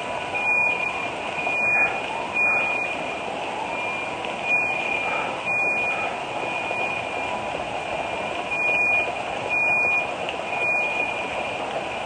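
A high, steady electronic tone that grows louder in short, irregular stretches over constant background noise.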